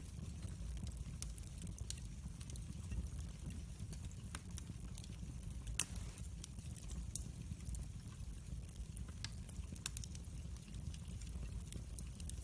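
Wood fire burning, crackling with scattered sharp pops over a steady low rumble of the flames; one pop about six seconds in is the loudest.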